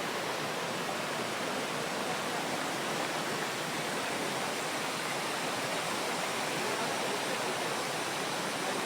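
Steady, even rush of running water from the stream and cascades along a waterfall trail.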